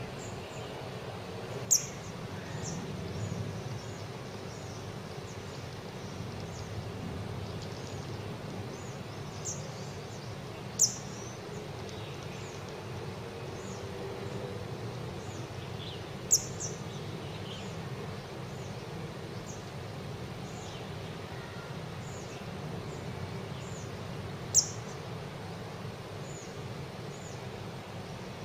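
Young scarlet-backed flowerpecker giving short, sharp, high chip calls, many faint and four loud ones spaced several seconds apart, over a steady low background hum.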